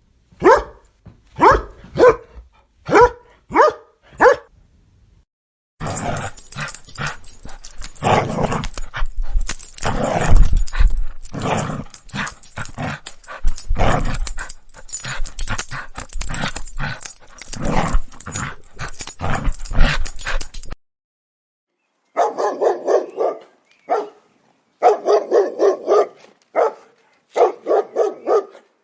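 Dogs barking in three separate recordings. First come single barks about once a second. Then many dogs bark over one another for about fifteen seconds. Near the end there are quick runs of short, high barks in bouts.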